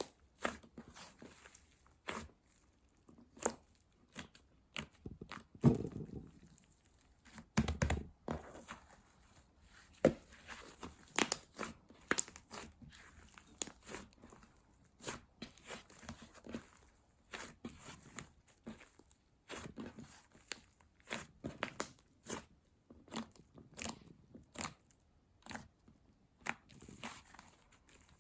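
Slime being handled and pressed by hand, making irregular small clicks and pops, with a couple of heavier squelches near the start.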